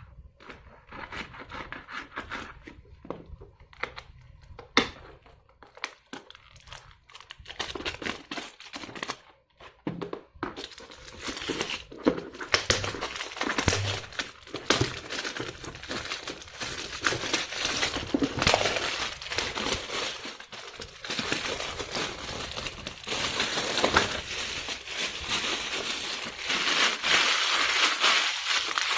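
Packaging being handled and unwrapped, crinkling and rustling with many small clicks and knocks. It grows denser and louder about ten seconds in.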